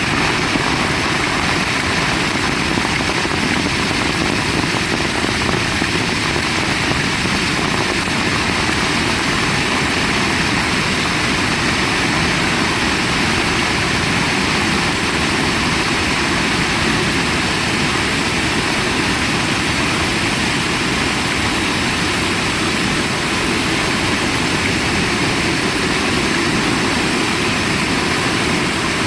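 Heavy rain pouring steadily in strong wind, as an even, unbroken wash of noise.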